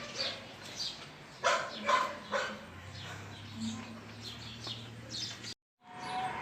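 Dog barking, three loud barks in quick succession about a second and a half in, then a few softer ones.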